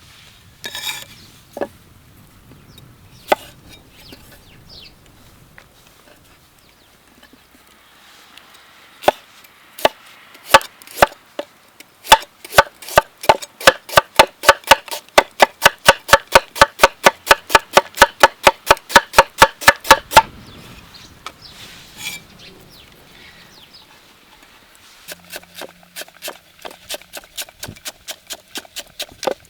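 Knife chopping on a cutting board: a few single chops, then a fast, even run of about four chops a second for about eight seconds, and after a pause a quieter run of chops near the end.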